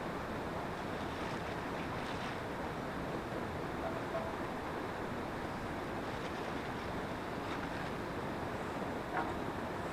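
Steady rushing wind noise, with a few faint ticks scattered through it.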